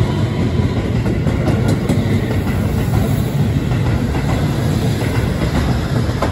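Keihan 3000 series electric train pulling out of the station, its cars passing close by with a steady low rumble and a few wheel clicks over the rail joints.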